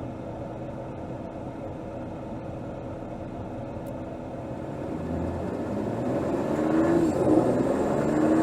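2024 Mercedes GLS 450's 3.0-litre turbocharged inline-six, heard from under the bonnet, running steadily at low revs, then pulling away about five seconds in. Its pitch rises, drops back and rises again, getting louder as the car accelerates through the gears.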